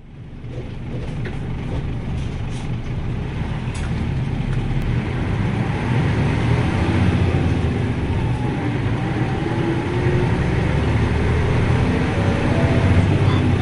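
Nissan Diesel U-UA440LSN city bus under way, heard from inside the cabin: a steady diesel engine and road rumble that grows louder over the first several seconds, with a faint whine in the second half.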